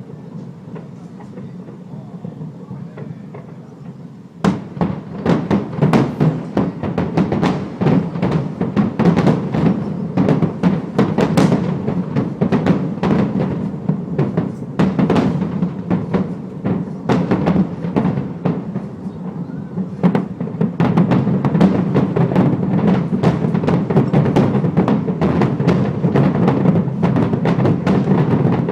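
Aerial fireworks shells bursting in rapid succession: a few scattered bangs at first, then from about four seconds in a dense, continuous barrage of booms.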